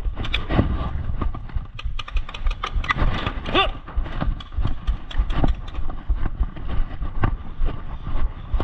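Many irregular sharp clicks and knocks over a steady low rumble, with a short pitched cry about three and a half seconds in.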